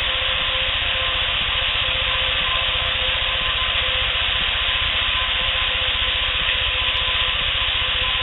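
Steady hiss with a faint steady hum under it, unchanging throughout, with no distinct call, knock or footstep standing out.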